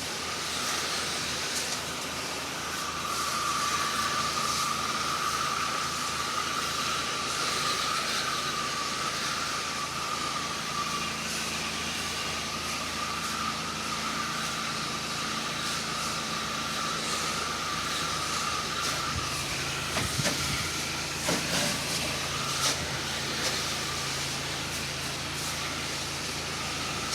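Pressure-washer spray hissing steadily as soap solution is applied to the house wall, with a steady low engine hum underneath. A few light knocks come about twenty seconds in.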